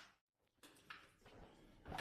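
Near silence: the sound drops out completely for a moment early on, then a few faint scuffs and rustles follow.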